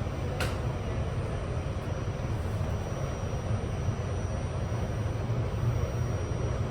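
R68 subway car running along the track, heard from inside the car as a steady low rumble. There is a sharp click about half a second in, and a faint high whine from about three seconds in.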